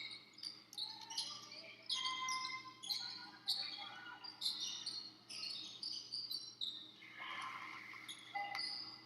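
Basketball game sounds in a large gym: sneakers squeaking in many short, high-pitched chirps on the court floor while a ball bounces.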